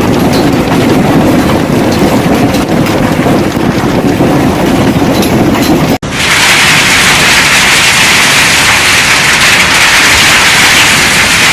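Heavy hail pelting down, a dense, loud clatter of stones striking hard surfaces. About six seconds in the sound cuts to a brighter, hissing downpour of hail.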